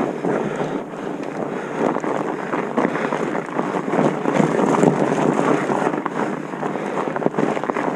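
Steady, crackly rushing noise with wind buffeting the microphone.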